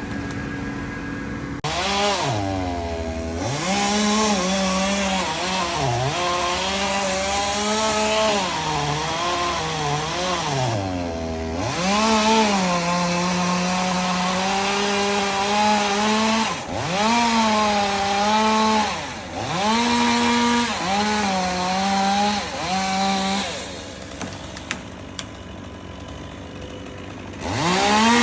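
Two-stroke chainsaw cutting wood in a run of cuts, its engine revving up and sagging under load again and again. Near the end it drops to a quieter idle for a few seconds, then revs up once more.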